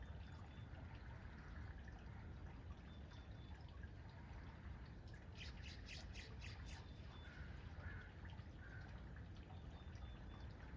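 A bird calling about halfway through: a quick run of about six harsh notes lasting a second and a half, over a faint, steady low background rumble.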